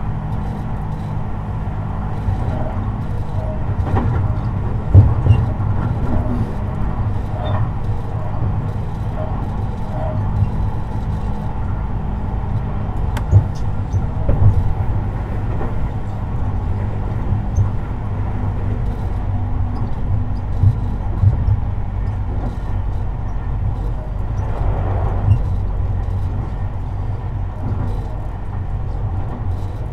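Tobu 50090 series electric train running, heard from inside the car over the underfloor: a steady low rumble of wheels on track with irregular knocks and thumps, the loudest about five and thirteen seconds in.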